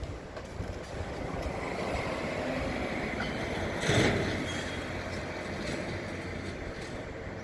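Drill rig truck's machinery running, a steady rumble that swells slightly, with one brief louder burst about four seconds in.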